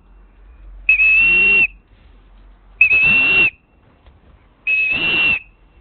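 Three steady, high-pitched whistle blasts, each a little under a second long and about two seconds apart: a pigeon fancier whistling to call a returning racing pigeon down to the loft.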